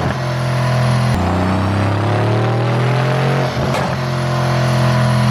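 2017 Mercedes-AMG C63 Coupe's twin-turbo V8 running under load through a pop-tuned exhaust, its note rising steadily. Sharp cracks break it about a second in and again near the end.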